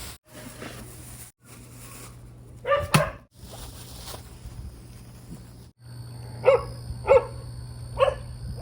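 A dog barking: a quick double bark about three seconds in, then three single barks under a second apart near the end, over a steady low hum. The sound cuts out abruptly several times, as if short clips were joined.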